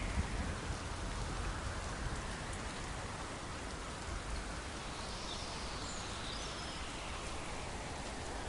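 Steady rain falling, with the low rumble of distant thunder fading away at the start and a few faint bird chirps about six seconds in.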